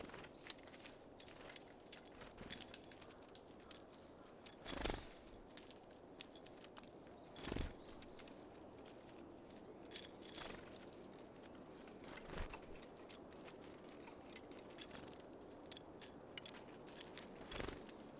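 Small birds at a feeder: a few scattered soft knocks and flutters, about five in all, as they land, take off and peck at seed, over faint high chirps.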